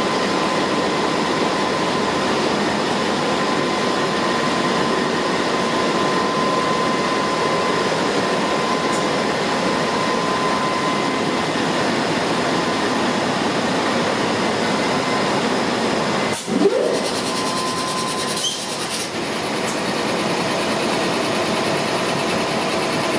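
Steady hum of a diesel passenger train standing at the platform, with a thin steady whine running through it. About sixteen and a half seconds in it is broken by a sudden short knock.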